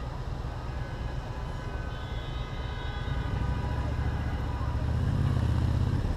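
Motorcycle engine running under way in city traffic, a low rumble that grows louder from about three seconds in and drops off just before the end.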